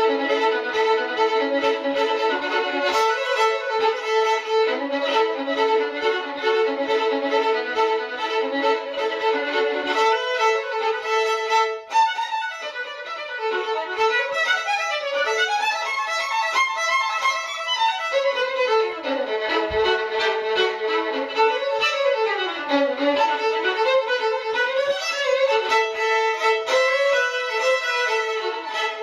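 Solo violin music, a melody over a held drone note, with sliding notes in the second half and a short break about 12 seconds in.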